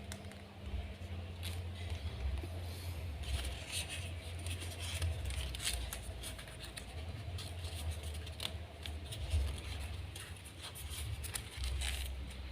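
Origami paper being handled and folded: irregular crisp rustles and crackles of the sheet, over a steady low rumble.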